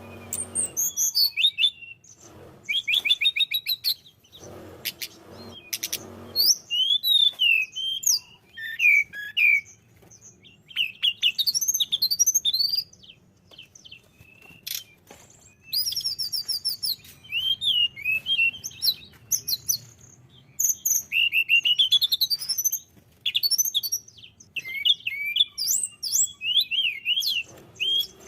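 Tledekan gunung songbird singing in repeated bursts of fast trills, slurred whistled notes and chattering phrases, with short pauses between them.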